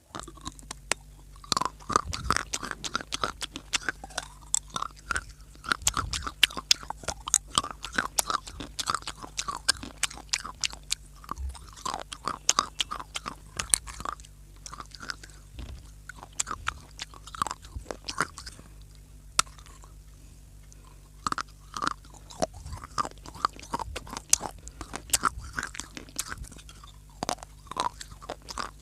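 Crunchy bites and chewing of dry clay close to the microphone: dense sharp cracks and crumbling, with a short lull about two-thirds of the way through. A steady low hum runs underneath.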